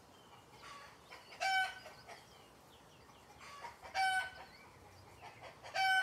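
Bird calls outdoors: three loud, short, steady-pitched calls about two seconds apart, each led by a few softer notes.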